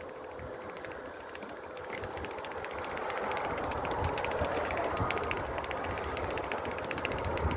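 Riding noise on a moving bicycle: a steady rush of wind and road with fast, fine ticking throughout, growing louder from about two seconds in.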